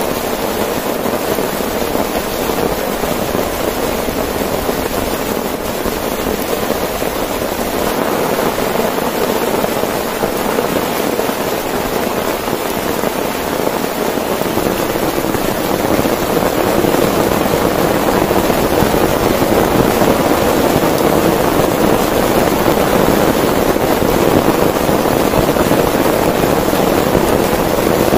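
Heavy rain drumming on a tent in a dense, unbroken patter, growing a little heavier past the middle.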